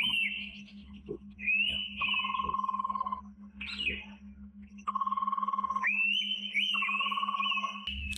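Indian pitta giving its whistled call, repeated in phrases about every one to two seconds, each with a sharp rising start and a clear held whistle, over a low steady hum.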